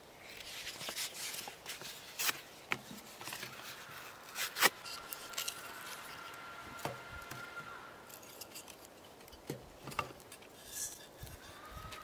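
Paper crumpling and rustling, then split kindling sticks being set down and knocked together in a metal fire box while a fire is laid, giving sharp wooden clacks every second or two, the loudest about four and a half seconds in.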